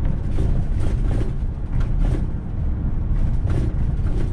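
Van driving on a paved mountain road, heard from inside the cab: a steady low rumble of engine and tyre noise.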